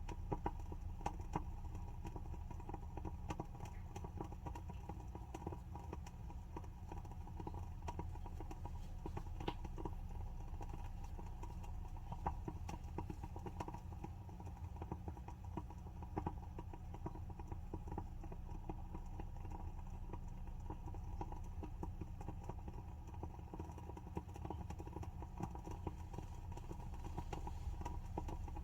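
WoodWick candle's wooden wick crackling as it burns: a steady stream of small, irregular pops and ticks, a few sharper than the rest, over a low steady hum.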